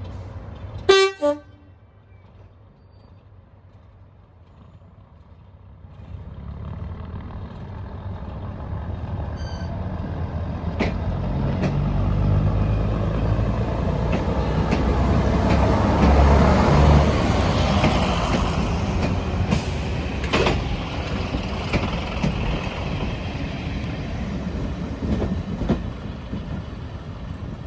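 Diesel locomotive sounding one short horn blast about a second in; after a lull its engine noise builds as it approaches, loudest about two-thirds of the way through, then eases off as it passes.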